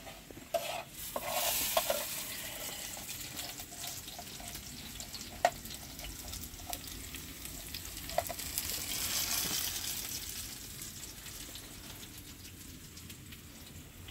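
Food sizzling as it fries in a pan, with a utensil stirring and knocking against the pan now and then. The sizzle swells about nine seconds in, then fades.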